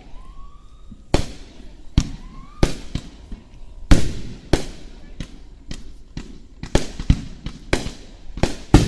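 Fireworks show: aerial shells launching and bursting in a rapid, irregular string of sharp bangs, about one or two a second, with the loudest about four seconds in and near the end. Twice a faint short whistle rises and falls between the bangs.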